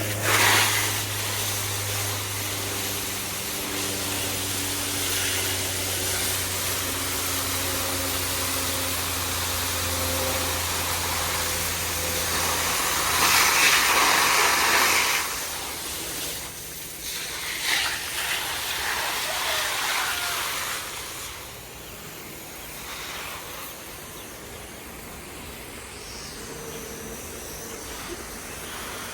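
Steady hissing noise that swells for a couple of seconds about halfway through, with a low steady hum that stops a little before the middle.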